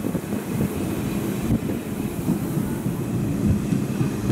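Diesel multiple-unit regional train rolling slowly past, a steady low rumble of its engine and running gear.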